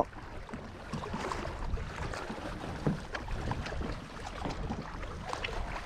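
Water lapping against a kayak hull, with wind on the microphone and small scattered knocks and ticks.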